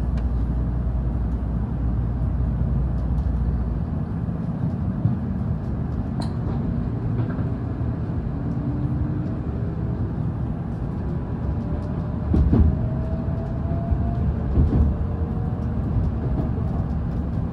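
Electric train running on the rails: a steady low rumble with a faint rising motor whine, and a few heavier knocks from the track about two-thirds of the way through.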